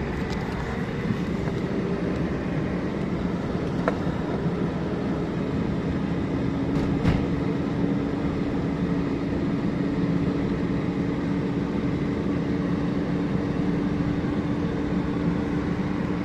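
A car driving at a steady speed: continuous engine and tyre road noise, with a steady low hum settling in about five seconds in and a couple of faint clicks.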